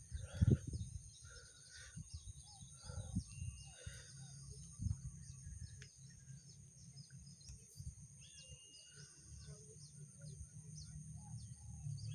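Rural outdoor ambience: many small birds chirping over a steady high-pitched insect drone, with a constant low rumble underneath and a brief louder noise about half a second in.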